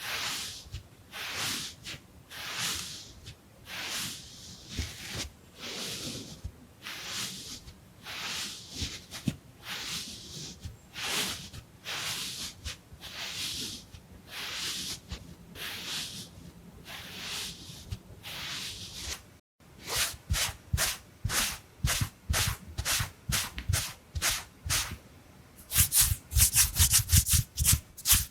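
Close-miked rubbing strokes of a face-cleaning wipe, a hissing swish repeating about every 0.7 s. After a brief break about two-thirds through, the strokes quicken, and near the end they turn into fast, loud scrubbing with a dull thump in each stroke.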